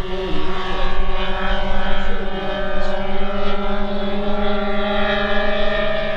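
Engines of a large radio-controlled C-5 Galaxy model running with a steady droning tone that rises slightly in pitch, with faint voices behind.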